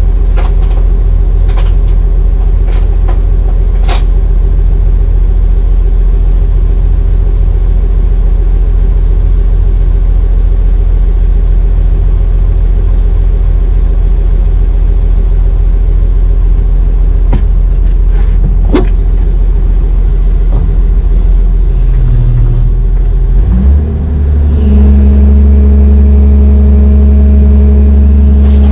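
Heavy diesel engine running under load with a steady low drone, with a few sharp knocks in the first few seconds and again past the middle. About 23 seconds in it revs up and holds a higher, steady speed.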